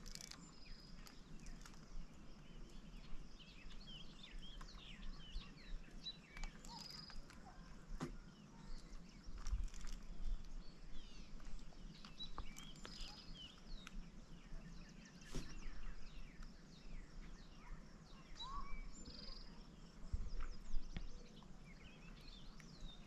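Birds calling: many short chirps and curling calls scattered throughout, over a low steady background hum and a few light clicks.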